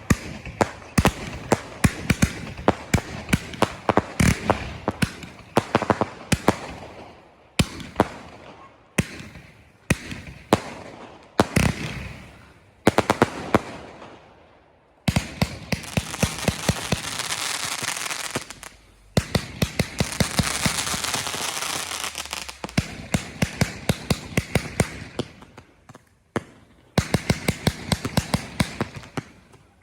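Fireworks display: rapid volleys of sharp shell bangs with short fading lulls between them, and a long stretch of dense crackling hiss about halfway through.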